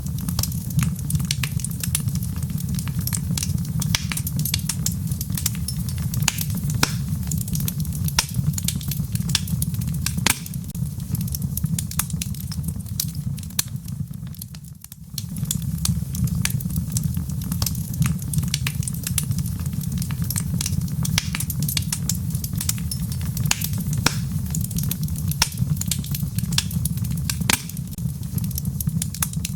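Wood fire crackling in a fireplace, with frequent sharp pops and snaps over a steady low rumble, mixed with the patter of rain. The sound briefly fades and comes back about halfway through.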